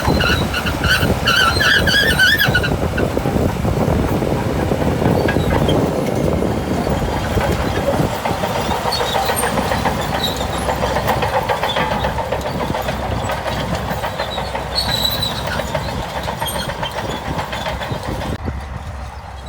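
Shantui crawler bulldozer working: diesel engine running with the clatter of its steel tracks. For the first two and a half seconds there is also a pulsing high-pitched squeal. The sound grows fainter near the end.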